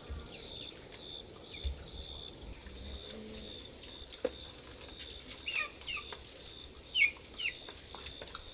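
Steady high-pitched insect drone, with a few short falling bird chirps and light clicks in the second half.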